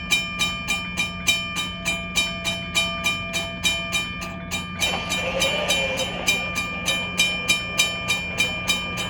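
Railroad grade-crossing bell ringing in quick, even strokes, about three a second, as a CSX freight train approaches. From about five seconds in, the noise of the oncoming train rises underneath the bell.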